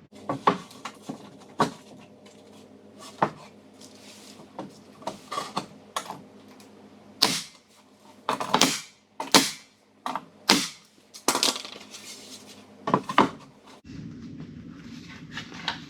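Irregular knocks, taps and short scrapes of pine shiplap boards being handled and fitted into place on a wall. A steady low hum starts near the end.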